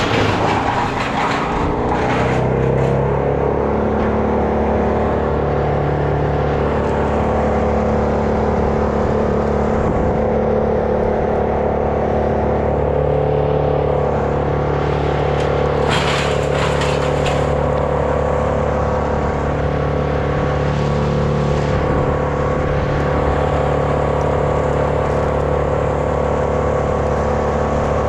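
An engine running steadily at a constant speed, its pitch settling in the first few seconds, with two short rushes of hissing noise, near the start and about midway.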